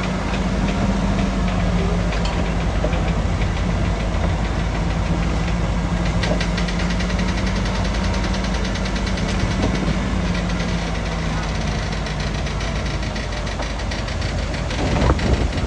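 Diesel engine of heavy earthmoving equipment running steadily, with a fast metallic rattle from about six seconds in. The engine note drops away near the end, and a loud thump follows.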